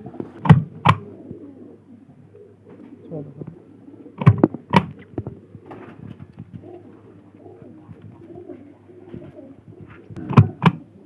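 Domestic pigeons cooing softly and continuously, broken three times by a pair of sharp knocks in quick succession.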